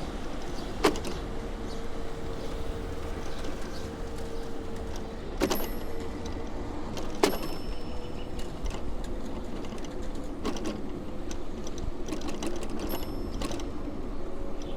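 Bicycle riding on city streets: steady rolling and road noise with a faint steady hum, broken by three sharp metallic clacks, one about a second in and two more a couple of seconds apart near the middle.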